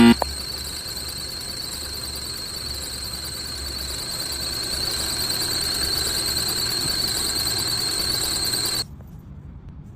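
A steady high-pitched squeal over a low hum, with a short loud knock at the very start; both stop suddenly near the end.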